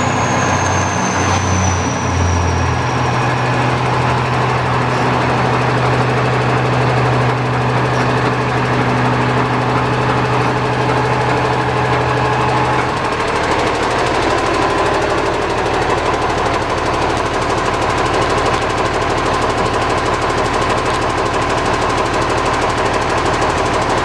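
Cummins six-cylinder diesel engine of a Kenworth T370 dump truck running steadily, with a faint high whine that falls in pitch over the first couple of seconds. The engine's note shifts about halfway through.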